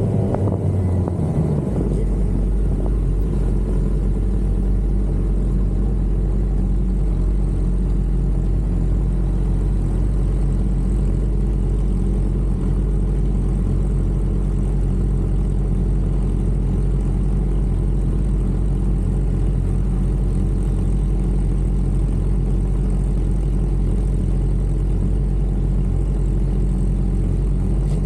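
Inline-four sport motorcycle engine: its note falls for the first two seconds, then holds at one steady pitch.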